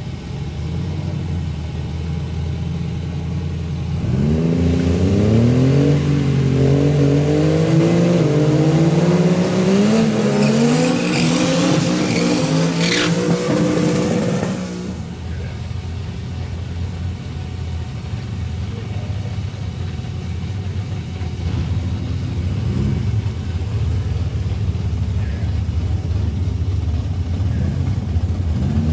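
A car engine running steadily, then accelerating about four seconds in, its pitch climbing with brief dips for around ten seconds, with a thin high whine near the top. It then drops back to a steadier, lower running sound.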